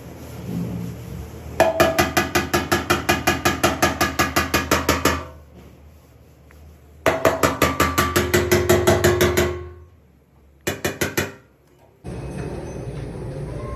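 Rapid, even hammer taps on car body sheet metal, about six a second, each ringing, in two long runs and a short burst: tapping down a panel during dent repair. A steady mechanical noise starts near the end.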